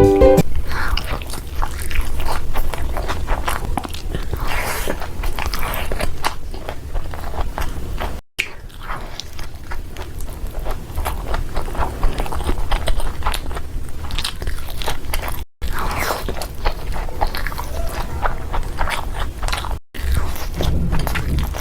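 Close-miked mukbang eating sounds: a dense run of biting, crunching and chewing, broken three times by a brief silent gap.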